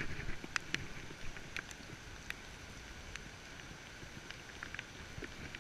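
Steady hiss of rain falling on wet pavement, with scattered sharp ticks that are most frequent in the first couple of seconds.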